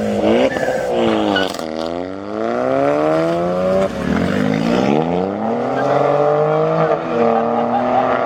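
Modified car's engine revving and accelerating away, its pitch climbing and dropping sharply at gear changes, about four seconds in and again near seven seconds.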